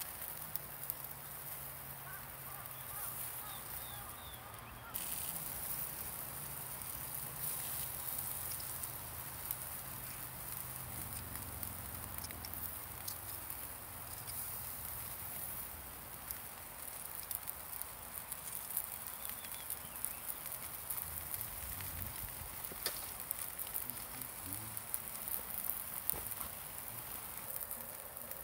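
Campfire crackling with scattered small pops over a steady high hiss, with a faint low drone through the first half.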